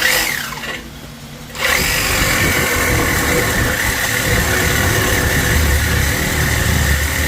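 Power cutting tool: a short run that winds down with a falling whine, then, about one and a half seconds in, the tool starts again and runs steadily with a high whine. It is being used to cut away an old drum-brake assembly.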